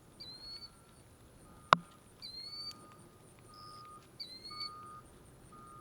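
A bird repeats a short, rising high chirp about every two seconds, with a fainter, steadier note coming and going underneath. A single sharp click sounds a little under two seconds in.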